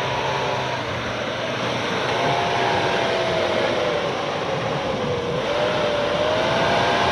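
Vehicle-mounted electric winch whining steadily under load as it pulls a stuck 4x4 out of the snow, its pitch wavering up and down.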